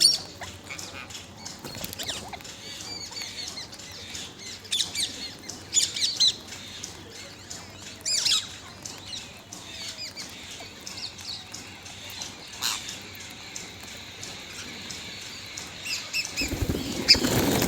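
Parrot squawking and chirping in short, scattered calls, with a louder flurry of wing flapping near the end.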